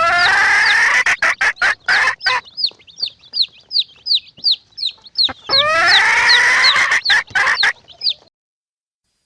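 Chickens: two long calls, one at the start and one about five and a half seconds in, with short clucks between them and a steady run of high, short peeps like chicks.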